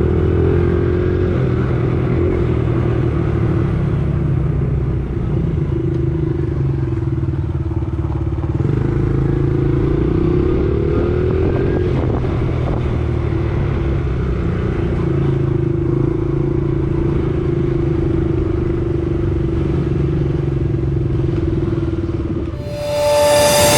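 Small four-stroke single-cylinder Honda pit bike engine running at steady throttle, its note rising and falling slightly as the rider works the throttle. Music starts loudly near the end.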